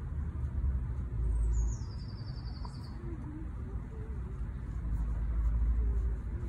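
A single bird call, a high trill that drops in pitch, lasting about a second and a half, from about a second in, over a steady low rumble.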